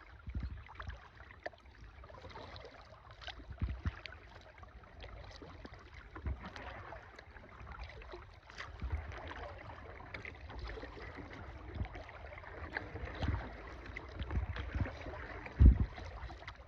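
Kayak paddling: paddle blades dipping and dripping water, with scattered light knocks and one sharp low thump about a second before the end.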